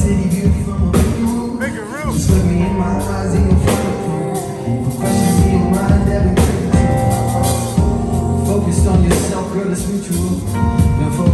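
Live band playing a song, with drum hits, bass and a singing voice.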